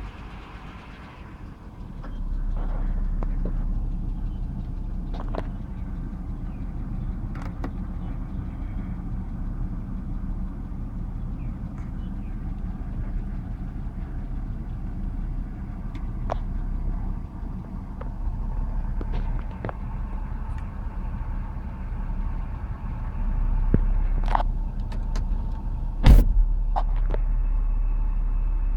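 2007 BMW X3 engine running steadily, getting louder about two seconds in, with scattered sharp clicks and one loud clunk about 26 seconds in.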